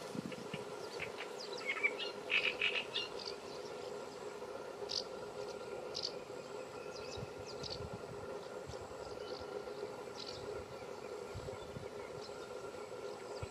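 Scattered short, high bird chirps, clustered in the first few seconds and sparser after, over a steady low hum and outdoor background noise.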